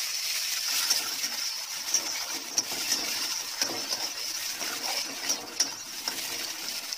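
Chopped tomatoes sizzling in hot mustard oil in a metal kadai, stirred with a flat metal spatula that scrapes and clicks against the pan several times.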